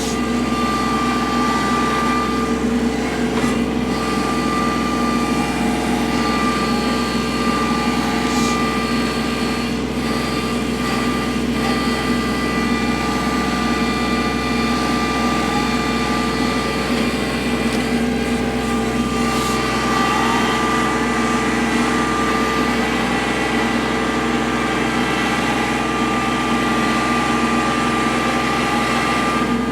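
Kubota L3301 tractor's three-cylinder diesel engine running at a steady speed.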